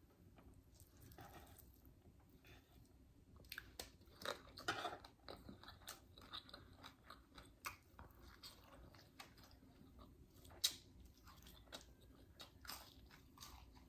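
Faint, close-up chewing of a mouthful of fried Spam and egg: irregular wet mouth clicks and soft crunches, busiest about four to five seconds in.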